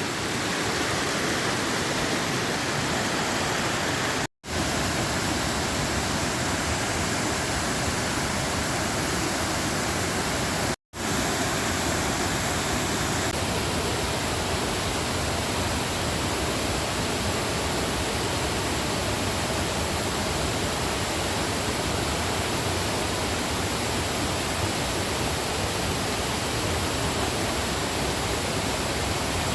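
Steady rushing of a small waterfall, a dense even hiss of falling water. It cuts out for an instant twice, about four and eleven seconds in.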